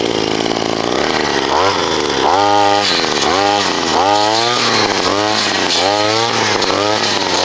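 Small engine of a Wild Badger multitool power head running steadily for about a second and a half, then revved up and down about eight times in quick succession as the throttle is blipped.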